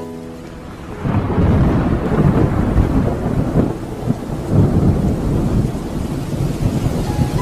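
Heavy rain falling steadily, with a low rumble underneath; it comes in about a second in as the intro music fades.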